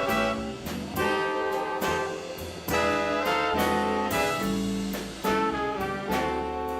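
Live swing band playing an instrumental passage of a slow blues ballad: trumpet, trombone and saxophones sounding held chords with sharp accents over upright bass and drums.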